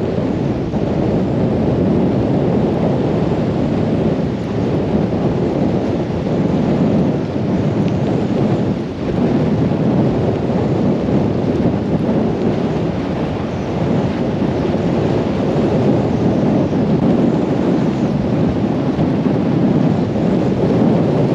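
Storm-force wind buffeting the microphone, together with driving rain: a loud, steady rush of noise that does not let up.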